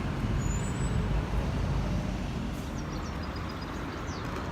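Steady street ambience: a low, even rumble of road traffic.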